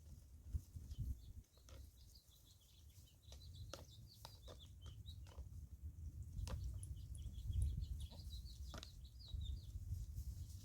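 Birds chirping in many short, high calls over a steady low rumble of wind on the microphone, with a few sharp clicks.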